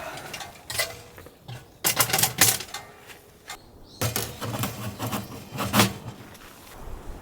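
Hard objects being handled: two bursts of quick clattering and clicking, about two seconds in and again about four seconds in, with quieter handling noise between.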